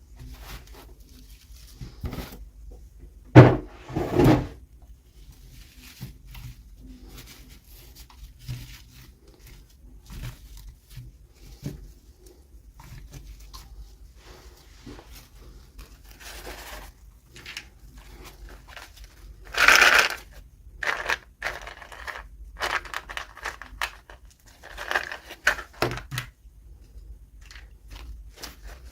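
Hands handling and opening miniature toy packaging: scattered plastic clicks, knocks and crinkling with quiet gaps. Two louder knocks come a few seconds in, and a louder burst of rustling comes about twenty seconds in.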